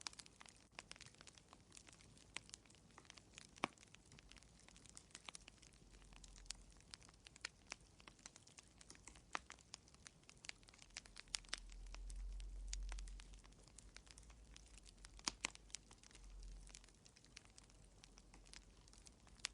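Wood fire crackling in a fireplace: a steady scatter of small, irregular pops and snaps, with a few sharper, louder cracks. A faint low rumble swells and fades about twelve seconds in.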